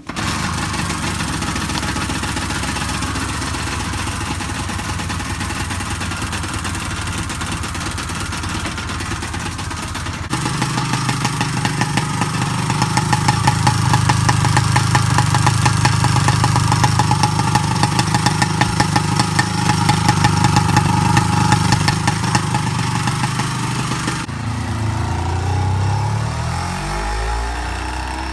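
Honda MVX250F's two-stroke V3 engine catches and runs steadily. About ten seconds in it gets louder and deeper. Its revs sink over the last few seconds before the sound drops away at the end.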